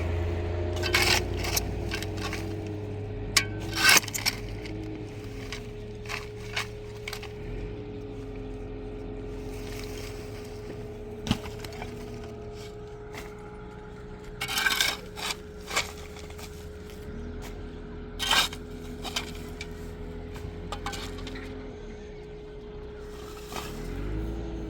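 An engine running, its speed rising and falling slowly, with scattered sharp clinks and knocks of hard objects throughout.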